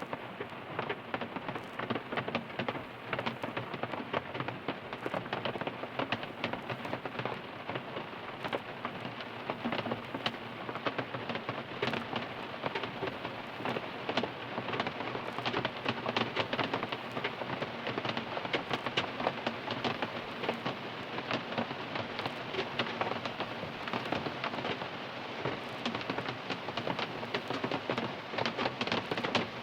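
Rain falling on a car, heard from inside the cabin: a steady, dense patter of many small drop impacts.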